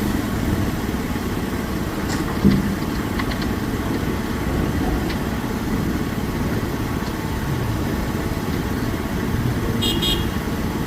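Heavy diesel engines of the dump trucks and loading machinery running steadily near idle. There is a brief thump about two and a half seconds in and a short high chirp near the end.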